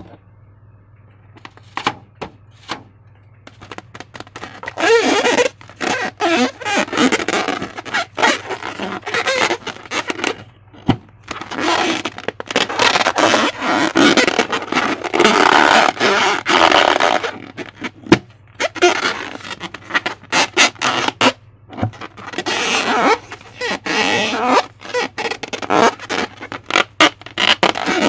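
Slime being squished and stretched by hand, wet crackling and squelching in several long bursts with sharp clicks between. The first few seconds are quieter, with only a few clicks.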